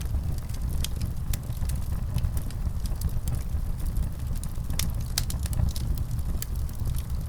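Wood fire crackling: scattered sharp pops and snaps over a steady low rumble of the burning fire.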